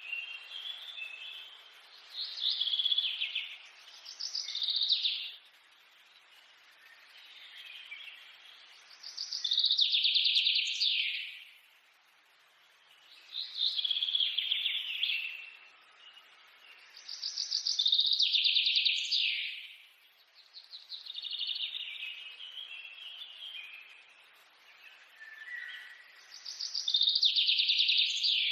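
A songbird singing: a loud, high trilled phrase about two seconds long, repeated roughly every four seconds, with softer twittering in between.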